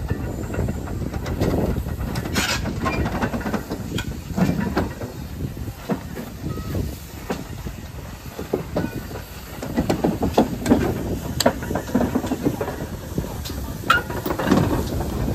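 Pannier tank steam locomotive working on the line: steam hissing over a rumbling clatter with scattered knocks and clicks, and a short burst of hiss about two and a half seconds in.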